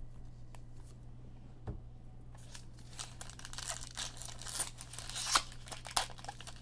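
Foil trading-card pack being torn open and crinkled, starting a little over two seconds in and crackling most near the end, over a steady low hum.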